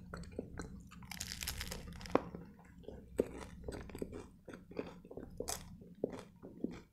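Close-miked chewing of a mouthful of turkey shawarma in lavash, with a dense run of small crunches and clicks. A longer rustling hiss comes about a second in.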